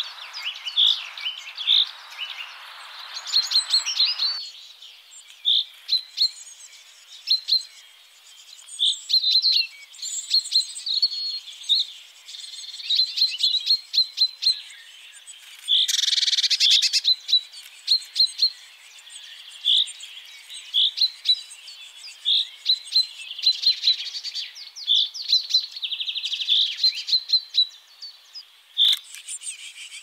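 Birds chirping and singing: short high chirps repeated about once a second, with rapid trills between them and a denser burst of song about 16 seconds in. A faint hiss underneath cuts off suddenly about four seconds in.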